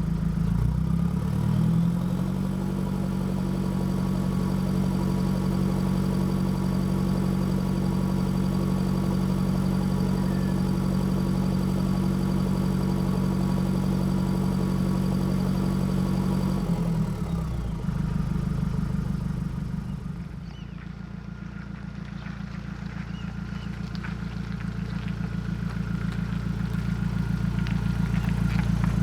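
Nissan Navara D22's YD25 2.5-litre turbo-diesel running through a new 3-inch exhaust, holding a steady note. About 17 seconds in the sound changes and drops, then grows steadily louder toward the end.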